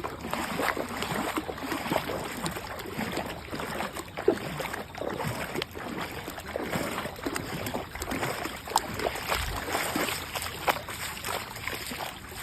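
Floodwater flowing and splashing steadily, with many small irregular splashes.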